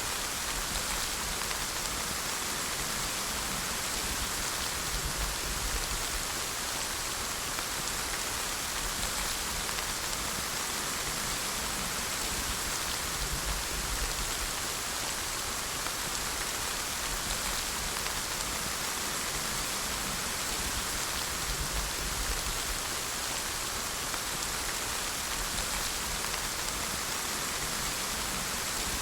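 Steady, even rain falling, a continuous hiss of drops without pauses or swells.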